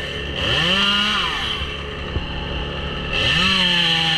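Stihl chainsaw engine revved up to full throttle twice, dropping back to idle in between. A single sharp click about two seconds in.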